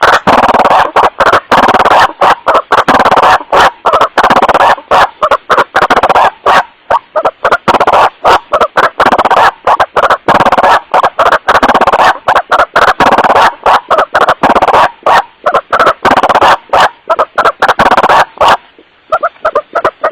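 White-breasted waterhen (kuruak) giving its repeated 'wak-wak' calls in a rapid, unbroken series, recorded so loud that it clips. The calls break off briefly near the end and come back fainter.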